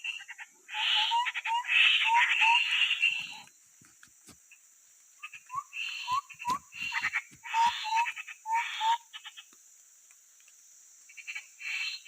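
Grey-headed babblers calling: harsh chattering bursts laced with short rising whistled notes, in two long bouts a couple of seconds apart and a shorter one near the end.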